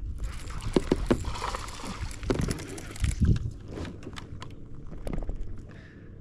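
A kayak on the water: several hollow knocks and thumps with water sloshing around the hull.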